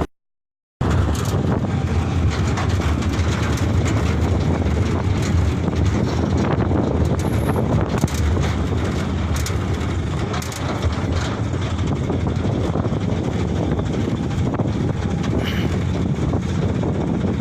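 Steady rumble and road noise of a Canter light truck on the move. The sound cuts out for under a second at the start, then runs on evenly.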